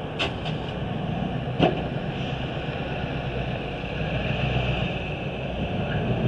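An engine idling steadily, with two short sharp knocks, the second and louder one about a second and a half in.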